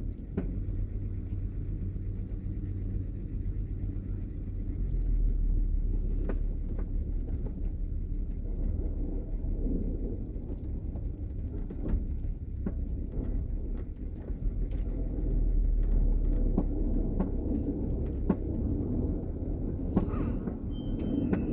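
Vehicle engine running at low speed, heard from inside the cab as it slowly manoeuvres into a parking spot, growing louder twice for a few seconds, with scattered light clicks and knocks.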